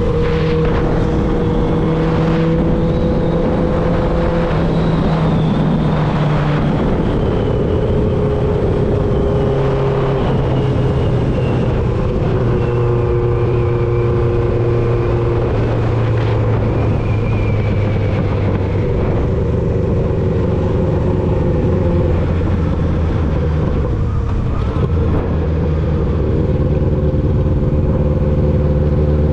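1995 Honda CB750 Nighthawk's inline-four engine running through a Vance & Hines 4-into-1 exhaust while riding. Its pitch settles lower in several steps, then climbs again near the end.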